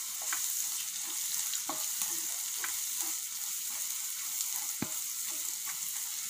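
Onion, ginger, garlic and curry leaves sautéing in hot oil in a kadai, stirred with a wooden spatula: a steady sizzle with scattered scrapes and knocks of the spatula on the pan, the sharpest about five seconds in.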